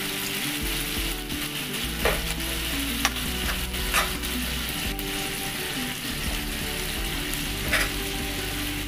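Sardines, onions and garlic sizzling in oil in a nonstick frying pan as a metal spoon stirs them, with a few sharp clinks of the spoon against the pan.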